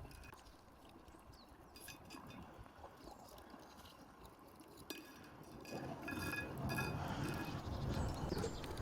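A few light clinks of utensils or dishes, short ringing taps that come closer together in the second half, over faint outdoor background noise.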